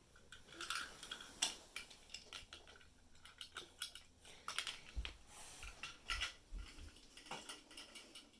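Small plastic Playmobil toy pieces clicking and clacking as they are handled, an irregular run of light knocks, with a few duller thumps about five to seven seconds in.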